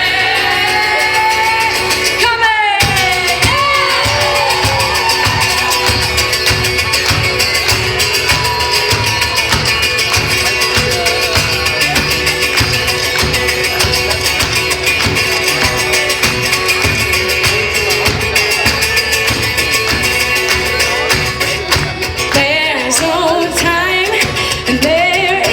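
Live music played at a fast, steady rhythm, with a brief stop about two and a half seconds in. Wordless singing comes in just after the stop and again near the end.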